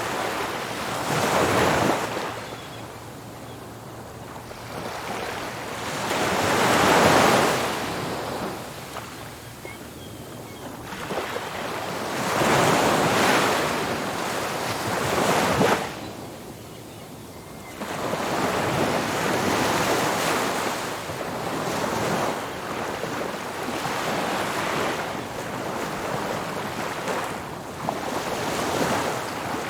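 Ocean surf breaking on a beach: waves crash and wash up the shore, the noise swelling and falling back every few seconds. The biggest breaks come near the start and in the first half, and the surf runs more evenly in the second half.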